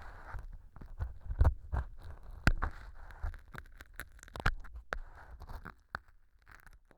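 Ear pick scraping and crunching through small pieces of floral foam packed in as mock earwax: a dense run of crisp crackles and scrapes with sharper clicks, stopping near the end.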